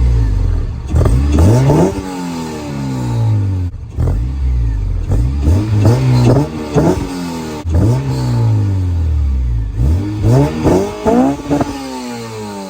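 Car engine being free-revved while standing: three sets of quick blips, about a second, six seconds and ten seconds in. Each climbs sharply in pitch, then falls slowly back toward idle.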